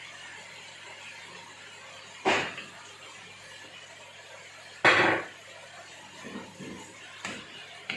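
Kitchen items being handled: two sharp clattering knocks about two and a half seconds apart, then a few lighter knocks near the end.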